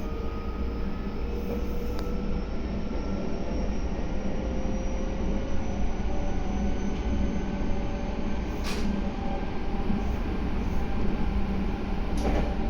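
Meitetsu 3150 series electric train running, its Mitsubishi-made traction motors giving a whine that slowly rises in pitch as the train gathers speed, over a steady rumble of wheels on rail. Two sharp clicks come in the second half.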